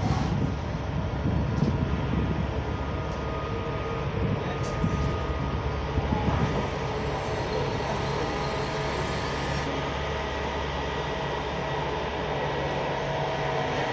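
A Griffin EU160 electric locomotive with its train approaching: a steady rumble, uneven in the first half, with a faint steady whine above it.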